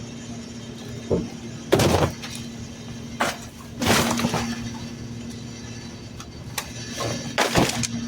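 Garbage truck loading trash: several loud, sudden crashes and crunches of refuse going into and being packed in the hopper, some with a breaking-glass quality, over the truck's steady engine hum.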